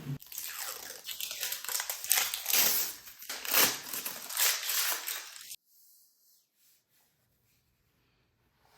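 Packaging crinkling and rustling as it is handled and pulled apart, with sharp crackles; it cuts off suddenly a little past halfway, leaving only faint handling noise.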